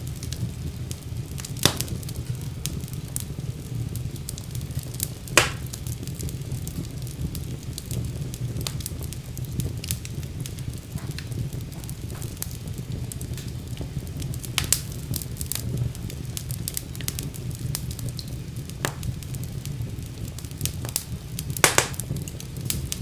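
Wood fire burning in a fireplace: a steady low rumble of the flames with scattered sharp crackles and pops, the loudest pops about two seconds in, at five seconds, and a cluster near the end.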